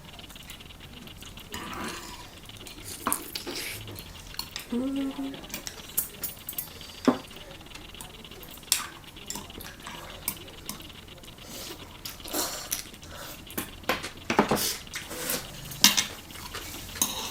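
Metal spoon and chopsticks clinking and scraping against an earthenware ttukbaegi bowl while ramen is eaten, in scattered sharp clicks at an irregular pace.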